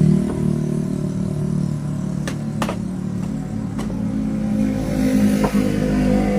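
A motor running steadily at a low pitch, with four sharp clicks or knocks between about two and five and a half seconds in.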